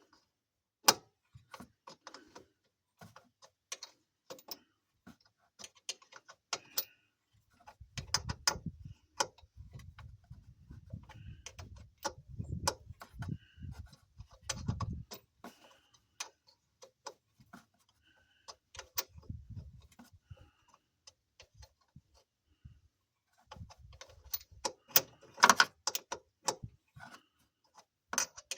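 Hand tools clicking and clinking on metal while the fan shroud is worked loose from a truck radiator: irregular sharp clicks, with duller low handling knocks in the middle and a loud burst of clanks near the end.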